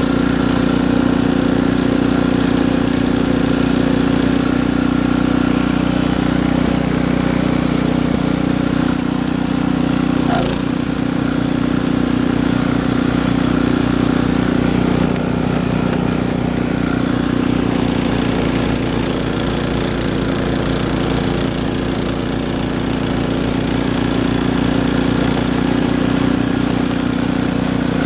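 Snowblower engine running steadily at a constant speed while clearing snow, with a brief knock about ten seconds in.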